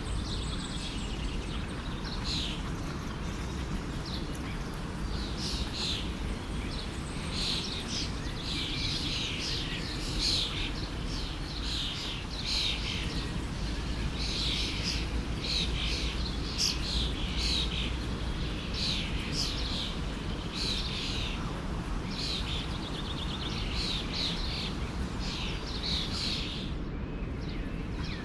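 Many birds chirping and calling in quick short phrases over the steady rush of a flowing forest stream.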